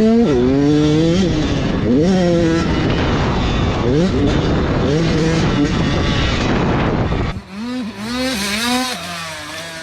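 Dirt bike engine revving hard, its pitch climbing and falling back several times as it accelerates, over heavy wind and engine noise. About seven seconds in the sound changes abruptly to a quieter dirt bike revving up and down.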